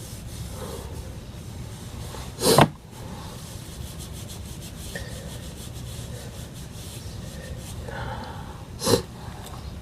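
A comb drawn repeatedly through damp, conditioned hair, a soft rubbing with quick strokes. Two short louder bursts break in, about two and a half seconds in and near the end.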